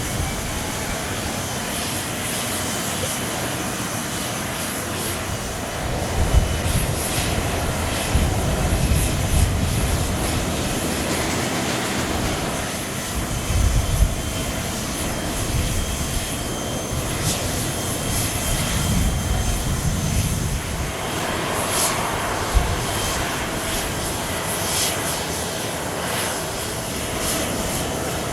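Boeing 777-300's Pratt & Whitney PW4090 turbofan engines running, a steady jet noise with a faint whine. An uneven low rumble swells in and out through the middle of the stretch.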